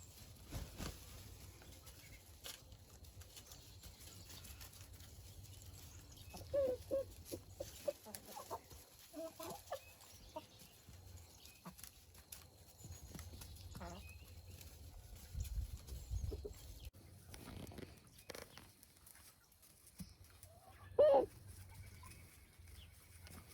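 Domestic chickens clucking now and then: a run of short clucks a quarter of the way in and a single louder cluck near the end, over a low rumble.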